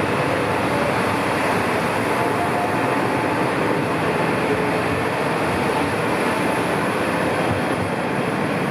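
Diesel railcar of the Umisachi Yamasachi limited express pulling out under power, its engine and running gear making a steady, continuous noise with a faint wavering engine tone.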